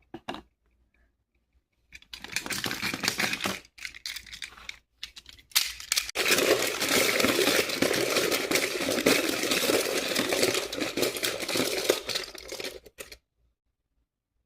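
Crinkling and rustling of a crinkly material being handled, first in a few short bursts, then continuously for about seven seconds before stopping suddenly.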